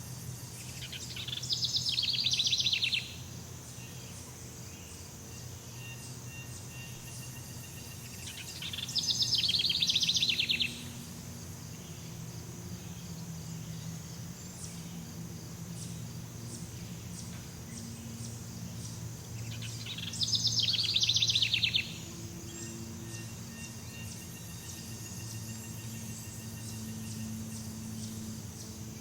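Jungle ambience: a rapid, high, pulsing trill from an animal sounds three times, each for about two seconds and roughly ten seconds apart, over a steady high insect whine and a low hum.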